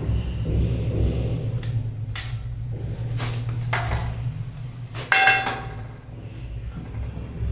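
Several sharp knocks and clinks of hard objects, a few seconds apart, the loudest about five seconds in with a short ringing ping, over a steady low hum.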